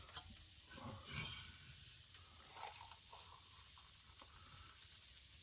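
Faint sizzling of food frying in a pan, with a few light clicks in the first second or so.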